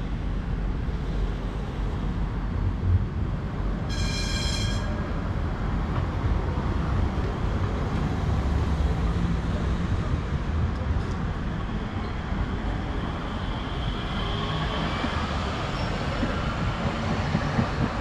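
Train running on rails with a steady low rumble. A brief, high-pitched tone sounds about four seconds in, and a higher whine comes in during the second half.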